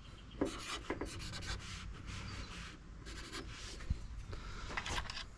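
Hands handling small pieces of scrap metal around a small weighing scale: irregular rubbing and scraping with light clicks and taps.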